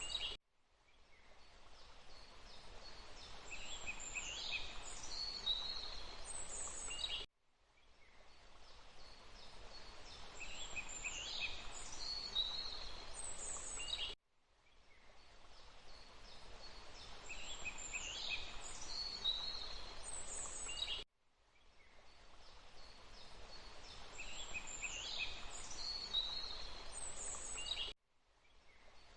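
Forest ambience of rushing water with bird chirps, looping about every seven seconds. Each repeat fades in from silence, brings a few high bird calls partway through, and then cuts off abruptly.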